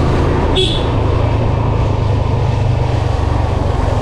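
Yamaha FZ V2 motorcycle's single-cylinder engine running under way, a steady low rumble mixed with road and wind noise. A brief high-pitched chirp sounds about half a second in.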